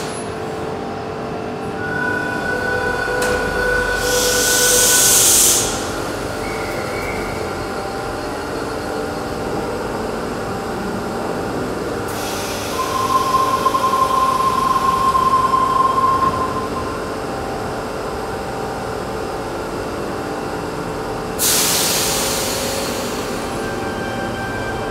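A Sydney Trains double-deck electric train standing at an underground platform: a steady hum from its equipment with several held tones over it. Pneumatic air hisses loudly twice, about four seconds in and again near the end, as the doors close before departure.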